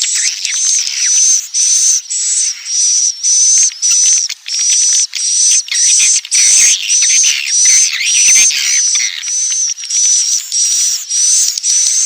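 Recorded edible-nest swiftlet lure call (suara tarik): a steady run of short, high, twittering chirps, about two a second, looped without pause. It is the kind of call played in swiftlet houses to draw the birds in.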